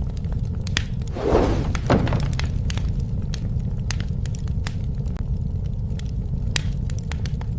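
Wood fire crackling, with irregular sharp snaps and pops over a steady low rumble of flames. A couple of louder bursts come about a second in.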